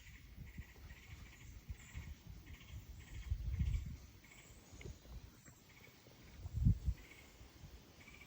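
Wind gusting across the microphone in low rumbles, strongest about three and a half seconds in and again near seven seconds. A faint, high, short chirp repeats about twice a second behind it.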